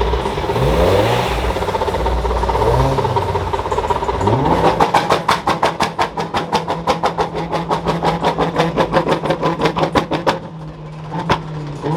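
Car engine revving up and down, then held at steady revs while sharp pops crackle about five times a second, the popping stopping about ten seconds in.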